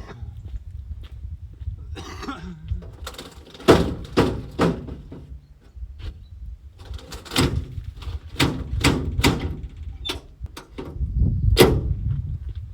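A series of about a dozen irregular knocks and thuds, the loudest about four seconds in and several close together later on, over a low rumble.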